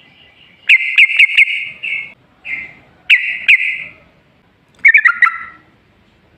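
Yellow-vented bulbul (trucukan) singing in four short, loud, bubbling chattering phrases, the last ending in a few falling notes, played as a lure song to draw other bulbuls into answering.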